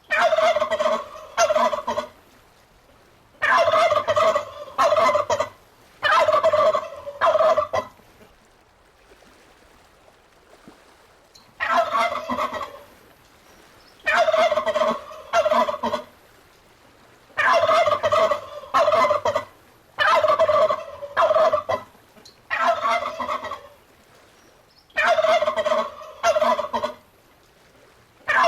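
Domestic turkey gobbling over and over in loud, rapid bouts of one to two seconds, with a pause of about four seconds between the first third and the rest.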